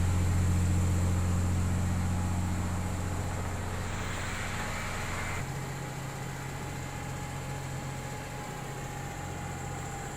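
Heavy-equipment diesel engine running steadily, gradually growing quieter, with its note shifting about halfway through and a brief hiss just before.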